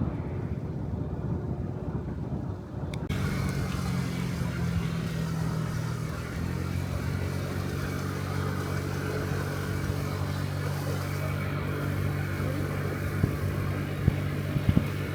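Low wind rumble on the microphone, then from about three seconds in the steady drone of a Honda Dio Cesta 50cc scooter's single-cylinder four-stroke engine cruising on the road. Its pitch shifts slightly about six seconds in.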